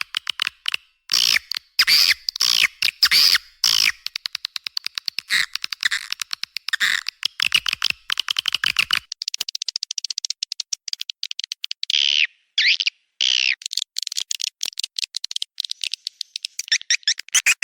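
Swiftlet lure recording of edible-nest swiftlet calls: rapid trains of clicks mixed with twittering chirps, with a few separate longer chirps about two thirds of the way through. It is the kind of call played at a swiftlet house's entrance hole and inside to draw the birds in.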